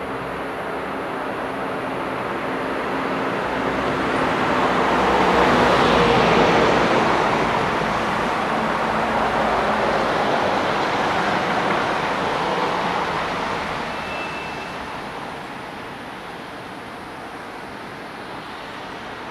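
A road vehicle passing by on a highway: its tyre and engine noise swells to a peak about six seconds in, then fades away.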